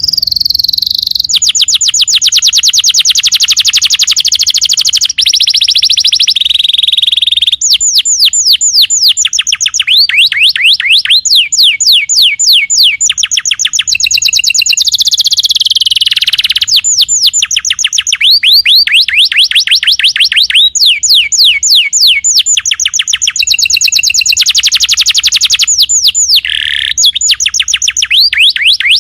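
Domestic canary singing a long, loud, unbroken song of rapid trills, moving every second or two from one run of repeated notes to another, many of them quick downward sweeps.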